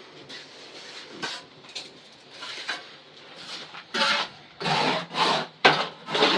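Rasping strokes of a hand tool on wood. The first few seconds hold faint, scattered scrapes. About four seconds in, loud, regular strokes begin at about two a second.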